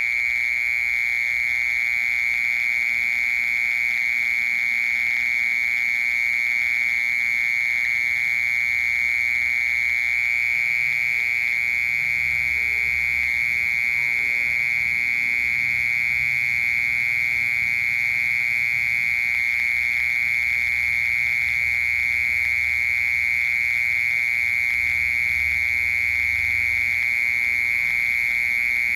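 Mole cricket singing: one continuous, even, high-pitched buzzing trill with no pauses.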